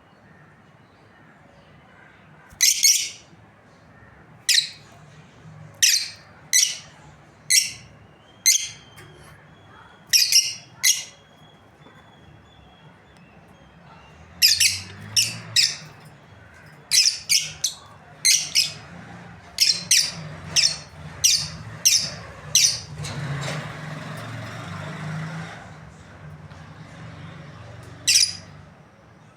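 Lovebirds giving short, shrill chirping calls, singly and in quick runs of two or three, at irregular intervals.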